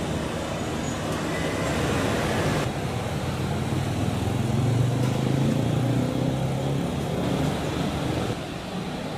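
Piper PA-28-181 light aircraft's piston engine and propeller droning as it flies over, growing louder toward the middle. The sound drops suddenly near the end.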